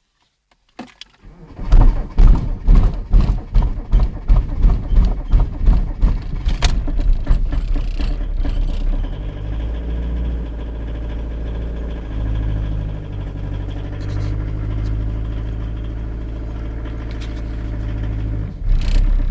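Cold start of a 1996 Skoda Felicia's 1.9-litre diesel engine at -15 °C. It catches about a second and a half in and runs rough and uneven with loud irregular beats for several seconds, then settles into a steady idle.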